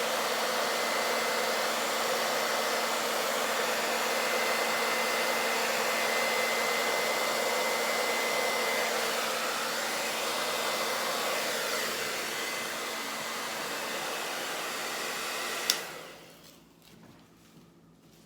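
Handheld hairdryer running steadily on one setting while it blows fluid acrylic paint across a canvas in a Dutch pour. It is switched off with a click near the end and winds down.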